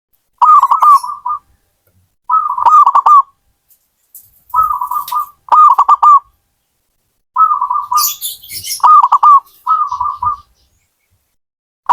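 Zebra dove (perkutut) cooing: seven short rolling phrases in a row, about a second apart. Fainter high chirps come in above them about eight seconds in.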